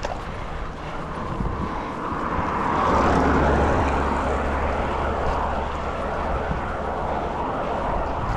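A motor vehicle passing close by on the road, its rushing noise and low engine hum swelling to a peak about three seconds in and then easing to a steady rush.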